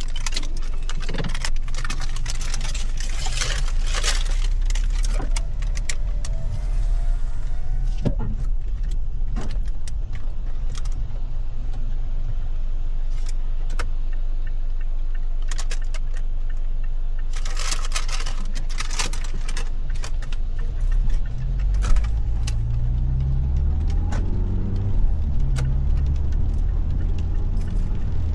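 Car engine idling with a steady low rumble, overlaid with bursts of crinkling rustles and clicks in the first seconds and again about two-thirds of the way in. Near the end the engine note rises and falls as the car moves off.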